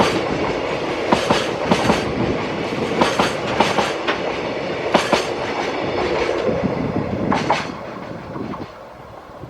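Freight train wagons rolling past, the wheels clicking over rail joints in repeated sharp knocks over a steady rumble. The sound dies away near the end.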